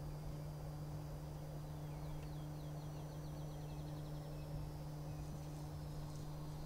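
Small birds calling in the background: a fast trill of repeated chirps about two seconds in, lasting about a second and a half, and scattered single chirps, over a steady low hum.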